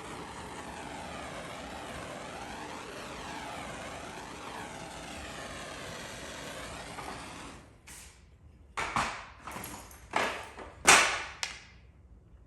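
A steady rushing noise whose tone slowly wavers up and down fades out about seven and a half seconds in. Then five short bursts of hiss follow, the last ones the loudest.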